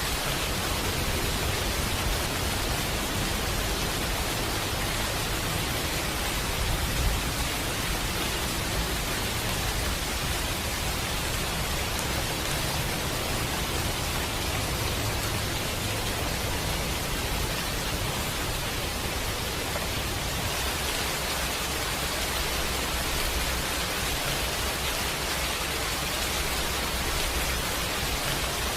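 Steady rain, a dense even hiss, with a low rumble underneath and a single sharp pop about seven seconds in.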